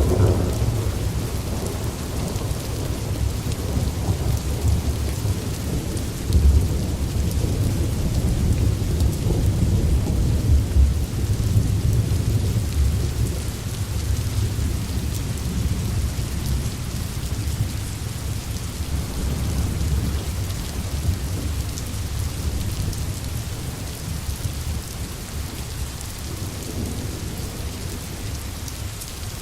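Steady rain falling on a tin roof under a continuous rumble of thunder, the rumble swelling a few times and easing off near the end.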